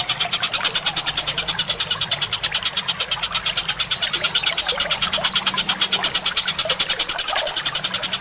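Bird-call masteran recording: rapid, very even high chirping, about nine calls a second, with a light trickle of water and a low hum underneath.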